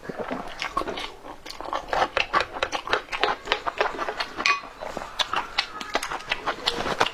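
Close-up eating sounds: a person chewing and smacking a mouthful of food, with many quick, irregular wet clicks.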